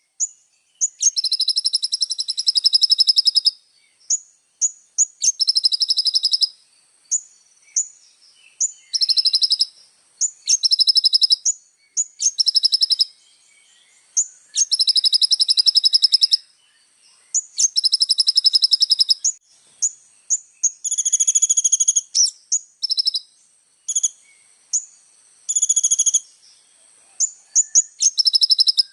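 Small sunbird of the kind sold in Indonesia as 'kolibri ninja' singing in a loud, energetic 'gacor' style: high-pitched, fast trilled phrases of one to two seconds broken up by short sharp chirps. A faint steady high tone runs underneath.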